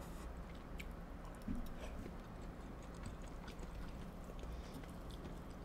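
Faint chewing and small wet mouth clicks from people eating cheesy spaghetti squash, over a low steady hum.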